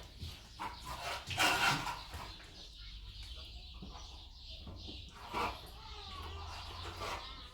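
Short animal calls, the loudest about a second and a half in, over a steady low hum.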